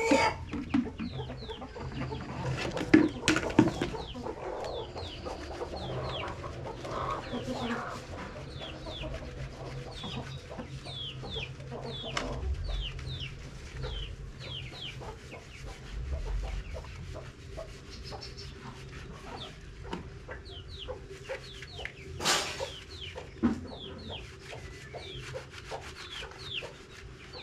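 Chickens clucking, with many short, high, falling cheeps repeating throughout. A few sharp knocks come about three to four seconds in, and another near the end.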